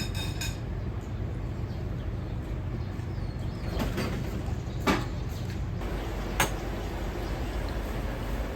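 Steady low roar of a working ramen-shop kitchen, with three sharp knocks of kitchen utensils about four, five and six and a half seconds in.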